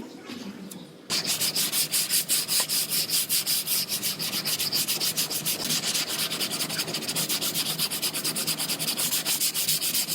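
Hand sanding on a car's body panel in fast, even back-and-forth strokes, about five or six a second, starting abruptly about a second in.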